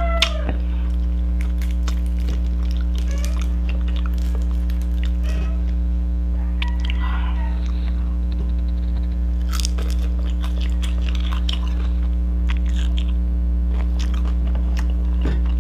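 Close-up chewing and biting on fried pompano eaten by hand, with scattered crunches and small clicks. Underneath runs a steady low electrical hum.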